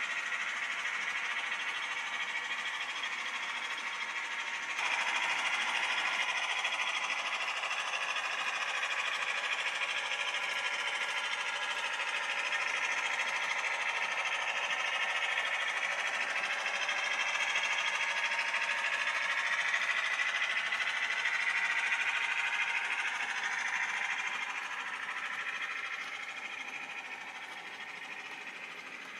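Model railway locomotive running on track: its small electric motor whines with a slowly wavering pitch over wheel-on-rail running noise. It gets louder about five seconds in and fades away near the end.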